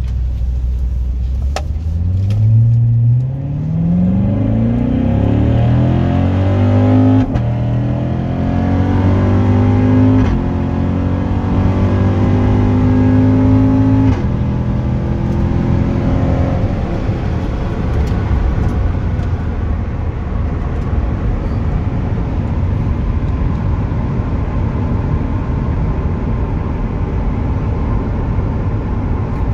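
Chevrolet Corvette C7's 6.2-litre V8 heard from inside the cabin, accelerating hard through the gears of its manual gearbox: the engine note rises and drops back at upshifts about 3, 7, 10 and 14 seconds in. After that the car settles into a steady cruise where tyre and road noise mostly cover the engine.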